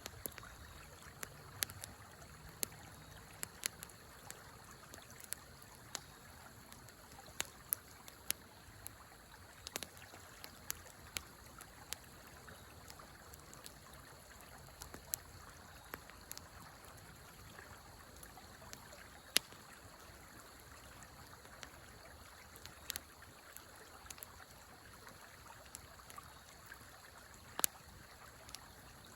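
Wood fire crackling in a fire pit, with irregular sharp pops, a few louder than the rest, over the steady rush of a river.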